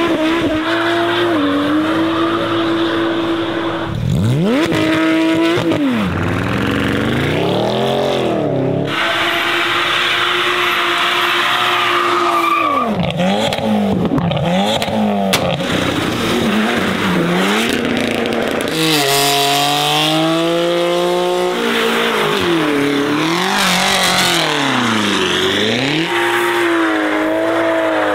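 Tuned performance cars with aftermarket exhausts revving and accelerating away, engine pitch sweeping up and falling back again and again, held steady for a few seconds at a time in between. Tyres squeal at times.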